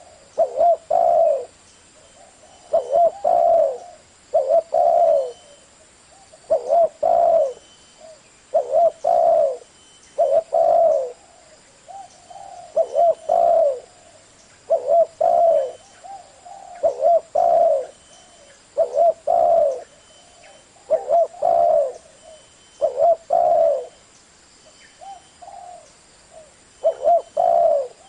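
Spotted dove cooing in a steady series of low, multi-note coo phrases, one about every two seconds, with a few fainter coos in between.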